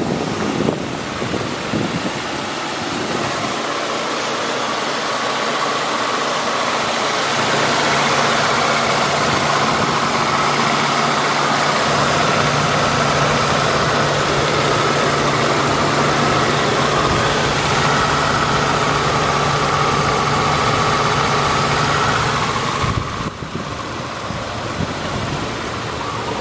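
2008 Ford Ranger pickup's engine idling with a steady hum that stops abruptly near the end.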